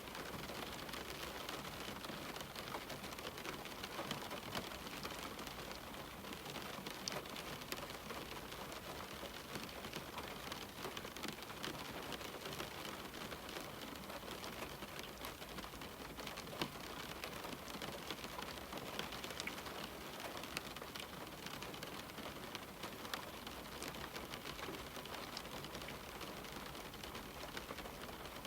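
Steady rain falling and pattering on a window, with many small drop ticks over an even hiss.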